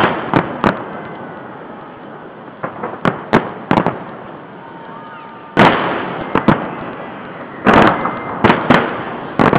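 Festive fireworks salute: a string of sharp bangs as shells burst overhead, in irregular clusters with crackle between them. The heaviest bangs come about halfway through and again near the end.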